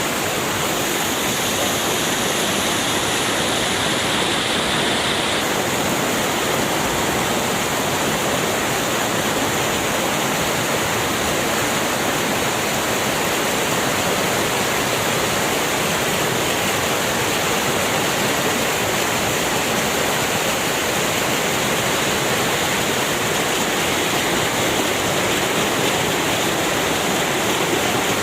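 Steady, loud rush of fast-flowing water in a swollen, raging river.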